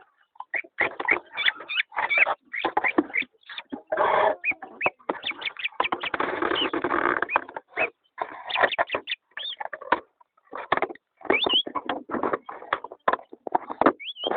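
Pet birds calling in quick, irregular chirps and chatter, with short gliding whistles.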